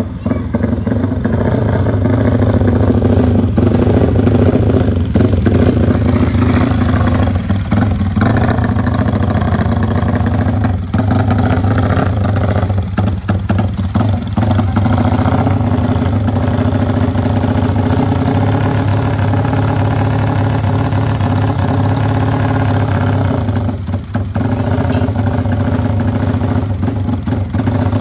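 Race-built Yamaha Vixion motorcycle's single-cylinder four-stroke engine running at a steady idle, with a few brief dips in the sound about eleven seconds in, around thirteen to fourteen seconds in, and near twenty-four seconds.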